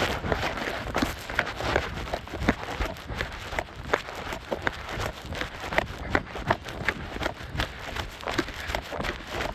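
Running footsteps of a trail runner on a dirt mountain path, a steady pattern of about three footfalls a second.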